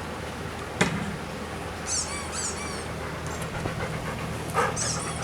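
Husky panting after playing fetch, with a sharp knock about a second in and short runs of high squeaky chirps twice.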